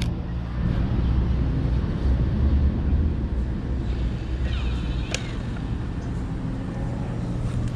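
A car engine running steadily at low revs, a low even drone, with one sharp tick about five seconds in.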